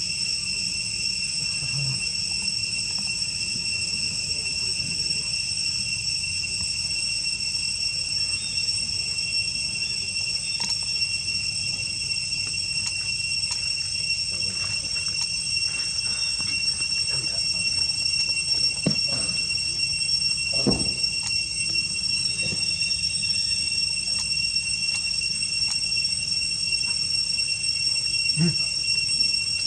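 Steady high-pitched insect drone, crickets, holding one unchanging pitch, over a low rumble with a few soft clicks and thumps.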